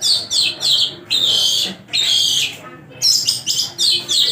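Long-tailed shrike (pentet) singing loudly: a run of quick high notes followed by longer slurred, falling notes, with the phrase starting over about three seconds later.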